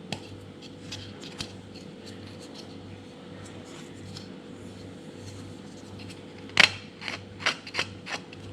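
Small clicks, taps and scratches of a freshly 3D-printed plastic part being handled and picked at, with a cluster of louder clicks about two-thirds of the way through, over a steady low hum.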